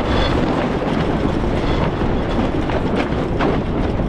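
Wind buffeting the microphone and water rushing along the hull of a racing sailing yacht under way, a steady loud rush with a few sharp ticks near the end.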